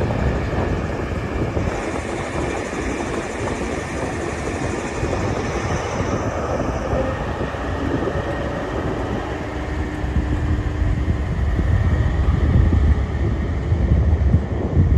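Great Western Railway HST (InterCity 125) train moving slowly along the platform: Mk3 coaches rolling over the rails under a steady diesel rumble, which grows deeper and louder for the last few seconds.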